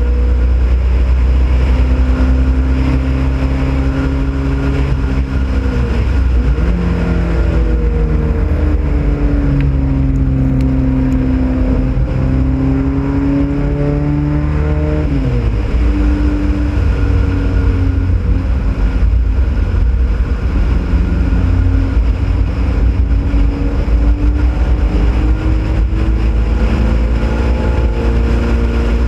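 Ford Pinto race car's engine at speed, heard from the hood with heavy wind rumble on the microphone. Its pitch climbs under power, dips briefly about six seconds in, climbs again, then falls sharply about halfway through and holds a steadier, lower note.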